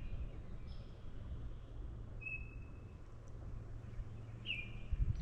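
A bird calling in woodland: short whistled notes every couple of seconds, each dropping in pitch and then holding briefly. A faint, steady low hum lies underneath.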